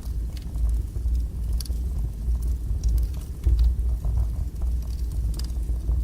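Wood fire burning strongly in a fireplace: a steady low rumble of the flames with scattered sharp crackles and pops.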